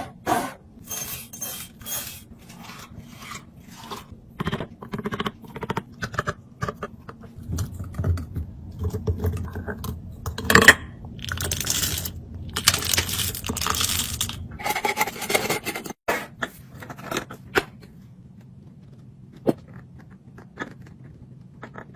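Containers and packages being handled and set down while a fridge is restocked: irregular clinks, knocks and scrapes, with a few longer rustling or sliding stretches in the middle.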